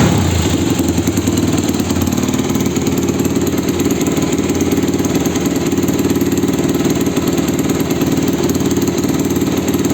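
Yamaha WR250 single-cylinder four-stroke with a full Akrapovic exhaust idling steadily, an even, rapid exhaust beat.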